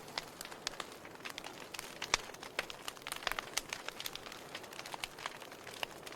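Wood fire burning in a fireplace: a soft steady hiss with irregular crackles and pops from the burning logs, one sharper pop about two seconds in.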